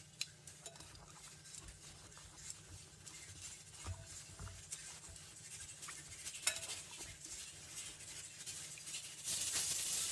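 Sliced eggplant being mixed with salt, chilli powder and turmeric: faint soft rubbing with a few light clinks against the dish. Near the end a steady sizzle of frying comes up.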